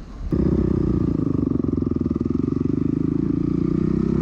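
Dirt bike engine starting suddenly about a third of a second in, then running steadily with a fast, even pulse.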